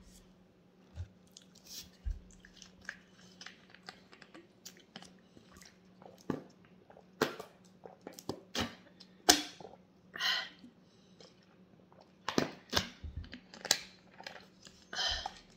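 Close-up eating sounds: chewing, lip smacks and short mouth clicks, with sips and swallows from a plastic water bottle in the second half. A faint steady hum runs underneath.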